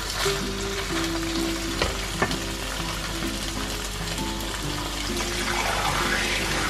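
Fish steak, shallots and ginger sizzling in hot oil in a nonstick wok, a steady hiss, with two sharp knocks of a wooden spatula about two seconds in.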